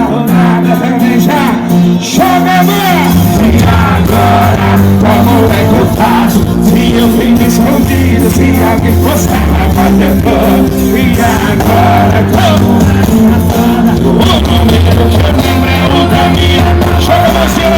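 Loud live band music with a singer. A heavy bass line comes in about three seconds in.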